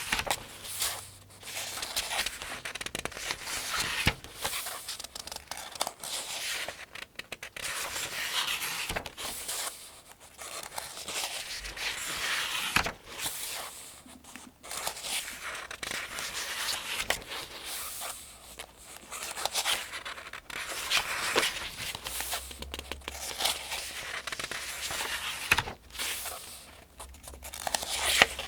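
Paper pages of the 2025 Farmers' Almanac being turned one after another, each turn a dry rustle. The turns come every two to three seconds.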